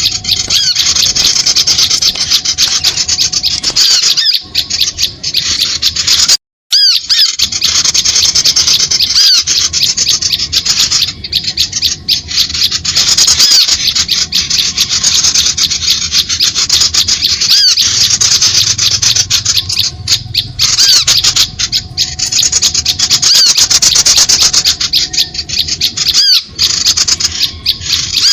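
Dense, rapid, harsh chattering calls of small birds, a bird-lure call recording meant to draw small birds in, running almost without pause. It breaks off completely for a moment about six and a half seconds in.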